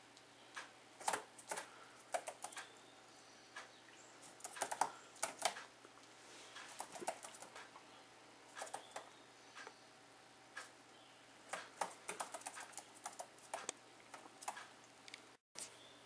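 A bird trapped against a window, its claws and beak tapping and scratching on the sill and glass: irregular sharp clicks that come in clusters with quiet stretches between.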